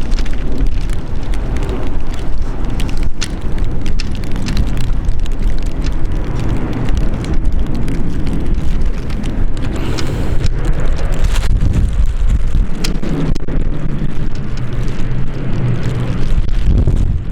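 Strong gusty wind buffeting the microphone as a heavy rumble, with scattered crackles. In the last few seconds a low, steady drone builds underneath: the Dash 8-400's turboprop engines on approach.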